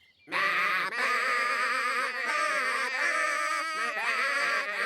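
Several cartoon voices singing together in close harmony, holding buzzy, wavering notes with a few changes of pitch.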